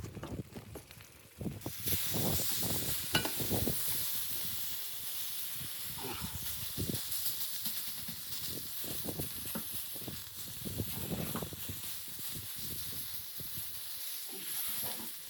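A steady hiss that starts suddenly about a second and a half in, with scattered short low knocks and rustles throughout.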